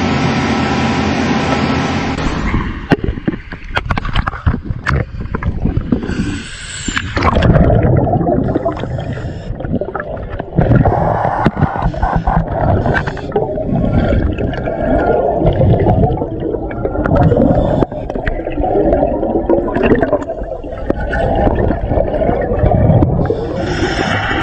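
Underwater sound around scuba divers: bubbles from their breathing gurgling in irregular surges.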